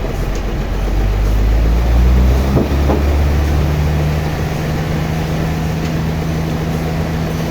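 An engine running steadily. About two and a half seconds in its note changes, and from then on it holds a steady, higher hum.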